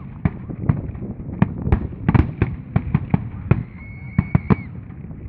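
Fireworks display: firework shells bursting in a rapid, irregular run of sharp bangs and crackles. A brief high whistle sounds about four seconds in.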